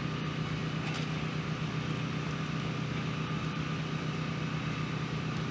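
A steady low mechanical hum with an even hiss over it, unchanging throughout, and a faint click about a second in.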